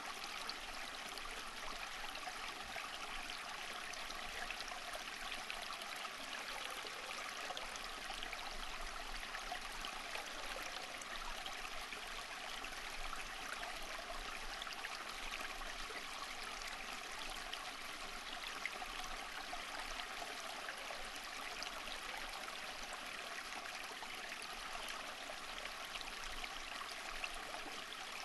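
Stream water running and trickling steadily, a continuous bubbling rush with no breaks.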